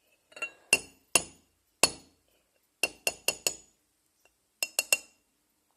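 Sharp clinks of a utensil striking a ringing dish or glass, about eleven in irregular groups of one to four, each with a brief bright ring.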